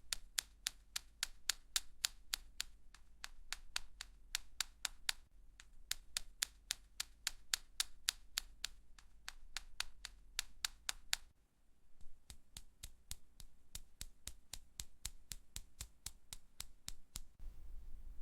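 AI-generated ASMR sound of fingernails tapping on a plastic makeup palette: an even run of light, sharp taps, about three to four a second. The taps pause briefly twice and stop shortly before the end.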